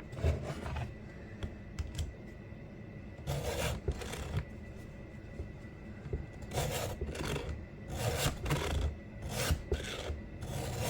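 Chainsaw chain being hand-filed with a 2-in-1 file sharpener that files the cutter and the raker at the same time: a row of separate rasping file strokes with short pauses between them. He is sharpening the cutters on the side with more tooth left down harder to even them up.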